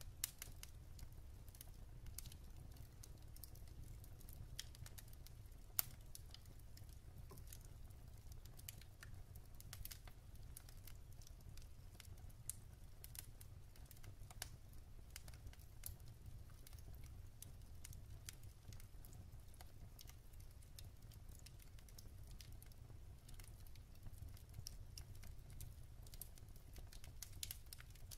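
Wood fire in a fireplace crackling faintly: scattered small snaps and pops over a low steady rumble, with one sharper snap about six seconds in.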